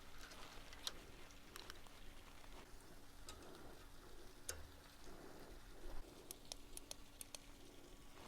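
Faint, scattered light clicks and taps over a low steady hum, with a quick run of several clicks about six to seven seconds in.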